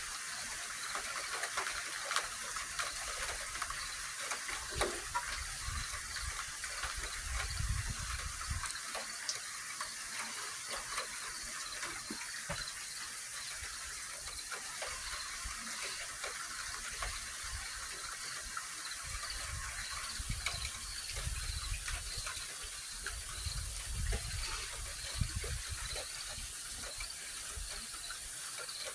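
Steady rain hissing, with deep rolling rumbles of thunder about seven seconds in and again through the last third.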